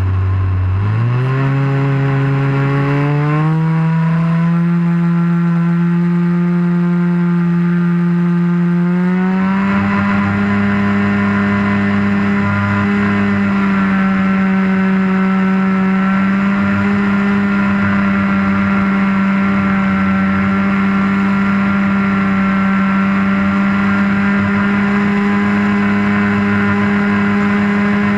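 RC model airplane engine, heard close up from the wing, throttling up: its pitch climbs from about a second in, rises again near ten seconds in, then holds a steady high note.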